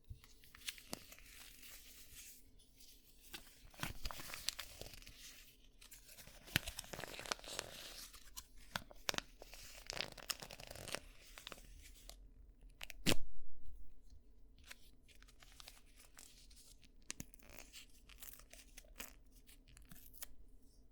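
Close-miked crackling and scratching of ASMR ear cleaning: irregular crisp clicks and rustles, busiest in the first half, with one louder burst about 13 s in.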